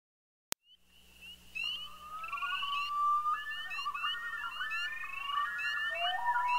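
Several birds singing and chirping at once, a dense mix of whistled, gliding and trilled calls, fading in after a brief silence and a single click about half a second in.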